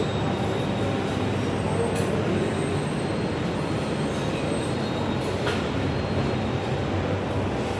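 Steady background din of a busy restaurant during breakfast, with a couple of faint clinks.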